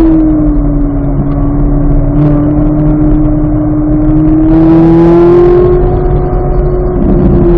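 2023 Chevrolet Corvette Z06's flat-plane-crank 5.5-litre V8 running hard at speed. Its steady engine note dips slightly, then climbs again about five seconds in.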